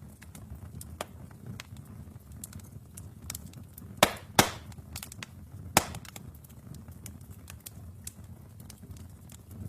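Wood fire in a fireplace crackling: frequent small snaps over a low steady rumble of flames, with three loud sharp pops about four, four and a half and six seconds in.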